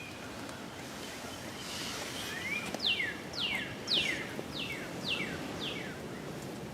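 A songbird singing a rising note followed by six clear whistled notes, each sliding steeply downward, about two a second, over steady background noise.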